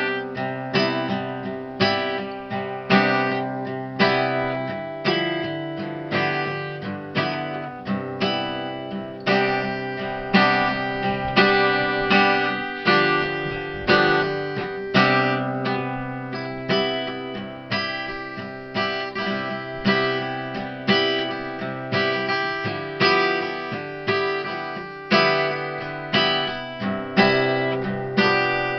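Acoustic guitar playing an instrumental piece, chords struck in a steady rhythm and left to ring.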